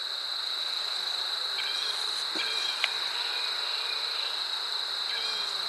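Steady high-pitched insect chorus, with short chirps repeating on top of it every second or two.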